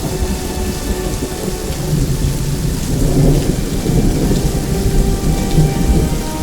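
Steady rain with a low, rolling rumble of thunder that swells about halfway through and then dies back.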